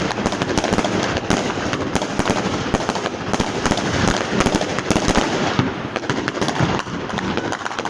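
Consumer fireworks and firecrackers going off continuously in the street, a dense crackle of many overlapping bangs and pops.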